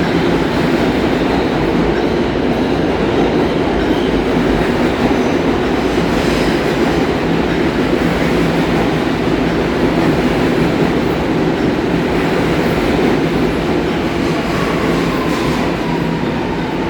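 Subway train running through the station, a loud steady noise of wheels on rails. A faint falling squeal comes in near the end.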